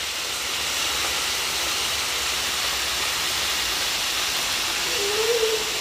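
Breaded chicken pieces deep-frying in a pot of hot oil, giving a steady sizzle.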